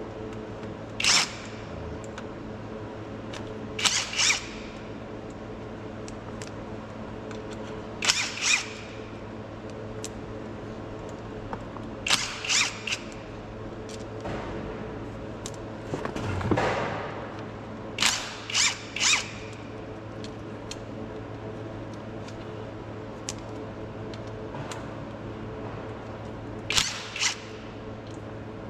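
Metal hand tools clinking against bolts under a bus, in short clusters every few seconds, as the fasteners on a transmission filter cover are worked at. A steady low hum runs underneath.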